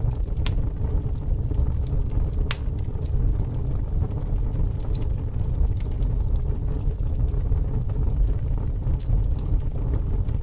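Fire burning with a steady low rumble and occasional sharp crackles and pops, the loudest about half a second and two and a half seconds in.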